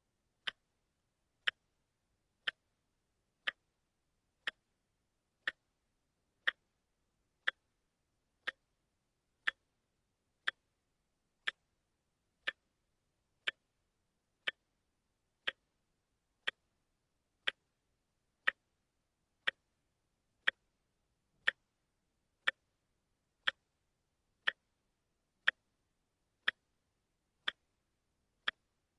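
Watch ticking steadily, one sharp, even tick every second with silence in between: the once-a-second step of a quartz watch movement.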